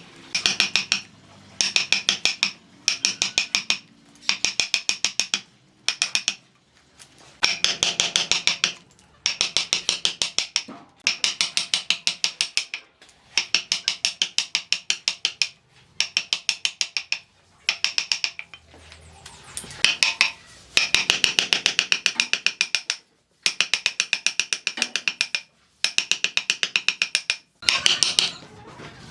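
Rapid mechanical clicking from a ratchet, worked in repeated strokes of about a second each with short pauses between them.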